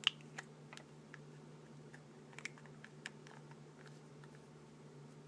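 Light, scattered taps and clicks of a small eye cream container and its packaging being handled, the sharpest click right at the start, over a faint steady low hum.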